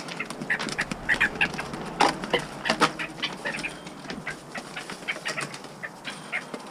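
Short, irregular bird chirps, with scattered clicks and rustles.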